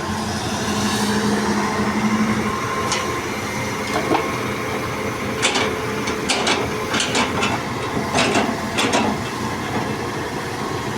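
Heavy diesel engine of a hydraulic excavator running steadily, its note swelling briefly about a second in, with a string of about ten sharp knocks and clatters through the middle.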